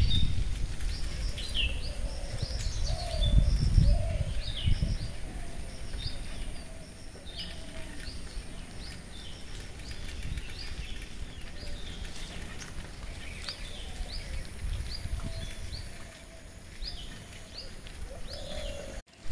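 Birds chirping: a long run of short, quick down-slurred chirps, with a few lower wavering calls among them. Wind rumbles on the microphone now and then.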